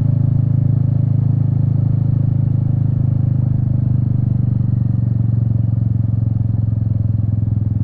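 Royal Enfield Meteor 350's single-cylinder engine running at a steady cruise, a constant low drone with road and wind noise underneath.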